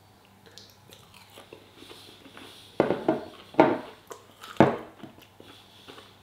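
Crunching bites into a crispy battered chicken piece: three loud crunches about halfway through, with quieter chewing clicks around them.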